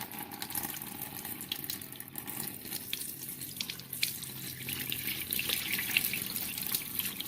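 Water pouring and splashing into a sink: a steady hiss with many small spatters.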